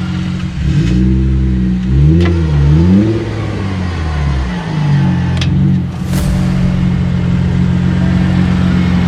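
Jeep engine revving up and down several times, its pitch rising and falling over about four seconds, then settling into a steady run. Two sharp clicks sound along the way.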